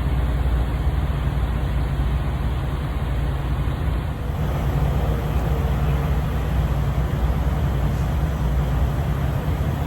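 Steady low rumble of idling truck engines, with a haze of road and traffic noise over it.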